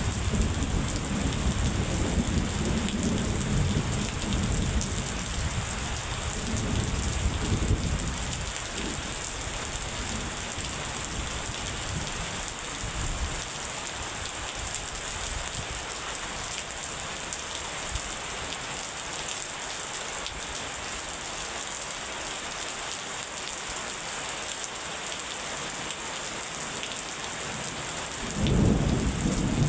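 Steady rain in a thunderstorm, with a roll of thunder rumbling over the first several seconds and dying away. Another thunder rumble breaks in near the end.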